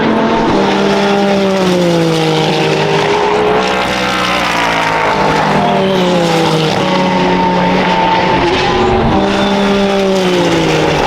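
Several endurance race car engines running hard past the track edge. Their pitches fall and rise over one another as the cars brake, shift and accelerate.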